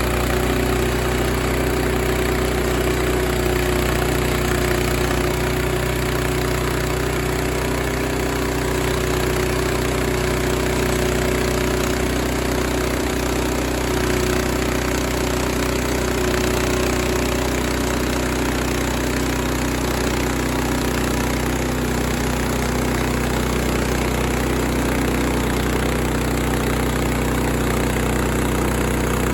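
Sawmill engine running steadily at an even speed, with a higher steady whine over it that fades away a little over halfway through.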